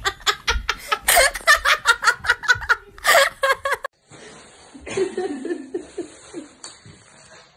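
A person laughing hard in quick, rapid bursts for about four seconds, then cutting off abruptly to a much quieter stretch with a faint steady hiss.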